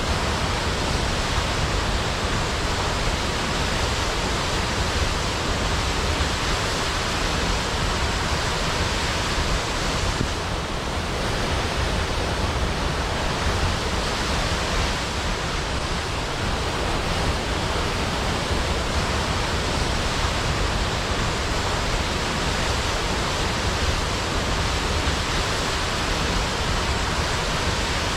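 Large waterfall crashing into a pool below: a loud, steady rushing of falling water.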